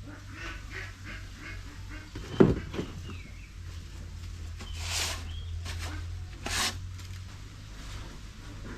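A single sharp knock about two and a half seconds in, then two softer brief scuffs, over a steady low hum: tools or parts being handled during engine disassembly.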